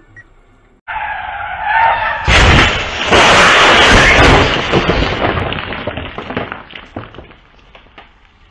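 Car tyres screeching in a skid, then a violent collision about two seconds in: a loud crash and crunch of metal and glass that dies away into rattling and clattering debris.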